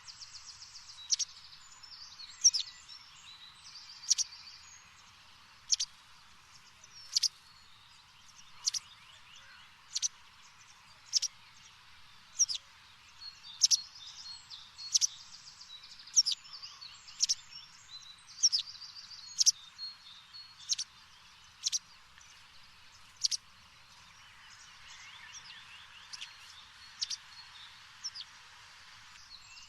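A bird chirping over and over, a sharp single chirp about every second and a half, with short buzzy trills at the start and again near the end, over a faint steady hiss.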